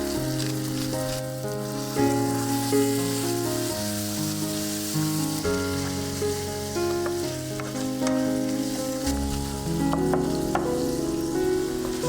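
Food sizzling and frying in an oiled pan, with a few sharp clicks about ten seconds in, under background music with a bass line and a melody moving in clear steps.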